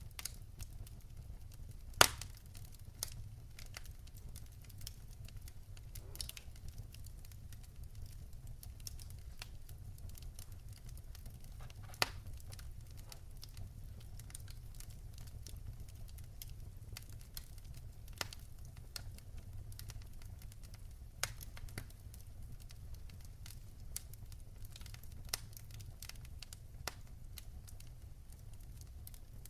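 Wood fire in a fireplace crackling: a low steady rumble of the flames with scattered sharp pops and snaps, the loudest about two seconds in and another near twelve seconds.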